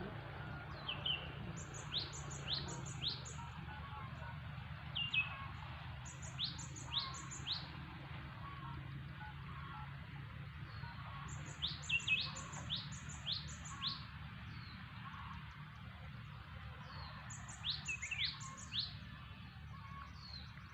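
A small bird calling: runs of three to six short high chirps, each sliding down in pitch, about half a second apart, repeated every few seconds. A steady low hum runs underneath.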